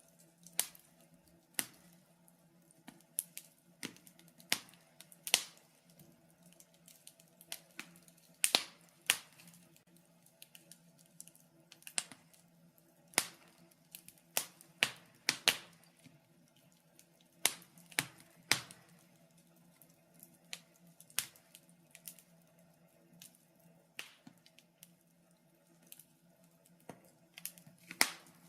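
Wood fire crackling: irregular sharp pops and snaps of burning logs, a few a second at most, over a faint steady low hum.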